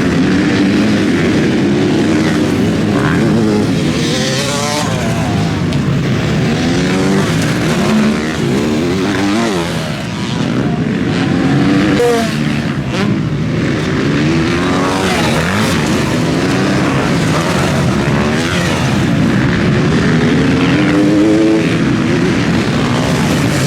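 Several motocross bikes racing, their engines revving up and dropping again and again as they accelerate, shift and pass, with several engine notes overlapping.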